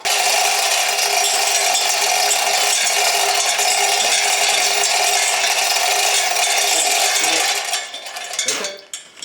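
Electric arc welder welding steel, a steady dense crackle that starts abruptly, runs for about seven seconds and then stops.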